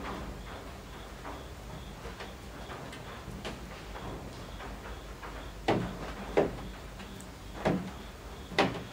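Rain beating on roof eaves: a steady soft wash of rain with irregular small drips, and four louder single drops hitting in the second half.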